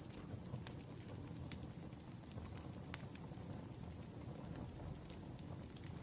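Wood fire burning: a low, steady rumble of flames with sharp, irregular crackles and pops from the burning logs.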